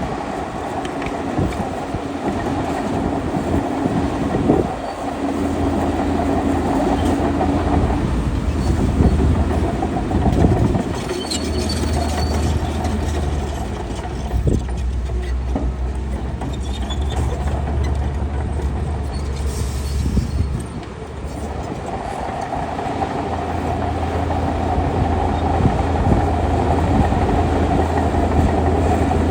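Shantui DH17C2 crawler bulldozer's diesel engine working under changing load, with the steel tracks clanking and rattling. The engine note eases briefly about twenty seconds in, then builds again.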